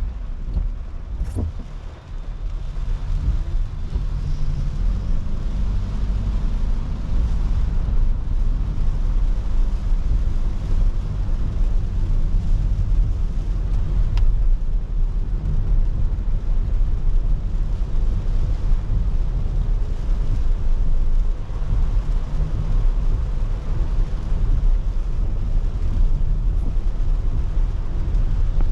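Car driving in the rain: a steady low rumble of engine and road noise with an even hiss of wet tyres and rain, dipping briefly about two seconds in.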